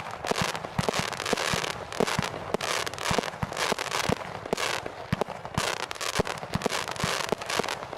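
Consumer fireworks going off in a dense barrage: rapid, irregular bangs several times a second over continuous crackling.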